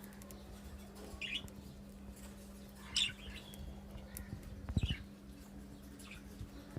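Small pet parrots in an aviary chirping: a few short separate chirps, the loudest about three seconds in, over a steady low hum.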